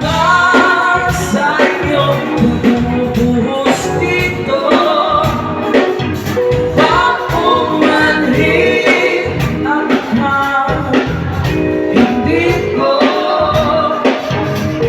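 A pop band playing with a steady drum beat, bass and a melody line.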